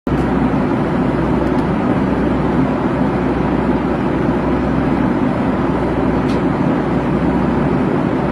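Aircraft engines making a steady, loud roar with heavy low rumble, which starts suddenly at a cut.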